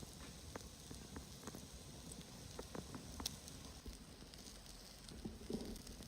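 Campfire crackling faintly, with scattered sharp pops over a steady low hiss.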